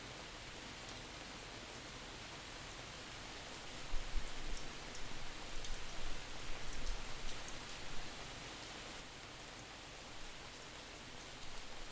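Steady rain hiss with scattered faint drip ticks. From about four to eight seconds in, low gusts of distorted wind buffet the microphone.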